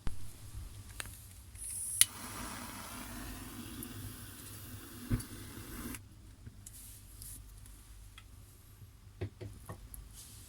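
A sharp ignition click, then a gas flame hissing steadily for about four seconds before it is cut off abruptly. A few light clicks and knocks follow near the end.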